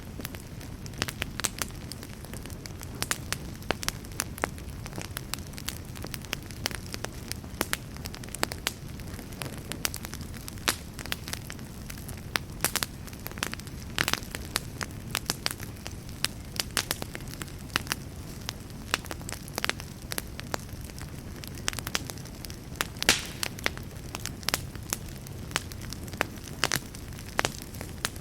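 Wood fire burning in a fireplace: a steady low rumble of flames with frequent irregular sharp crackles and pops from the burning wood, one louder pop a little past the three-quarter mark.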